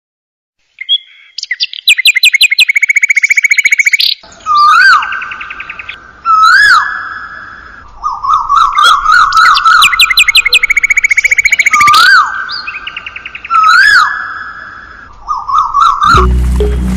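Bird chirping and trilling in repeated phrases: fast rattling trills alternate with loud up-and-down whistled notes. Music comes in near the end.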